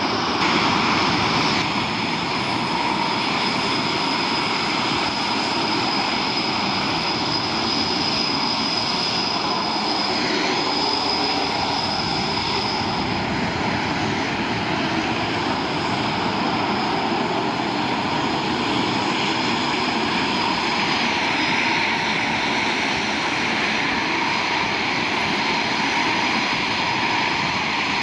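Jet aircraft engines running steadily: a continuous rushing noise with a high whine that holds its pitch, the sound of fast jets on the ground rather than a passing take-off roar.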